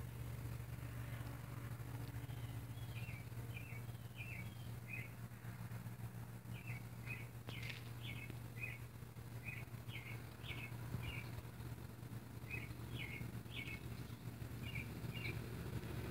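A small bird chirping over and over, short chirps that drop in pitch, about two a second, starting a few seconds in, over a steady low hum.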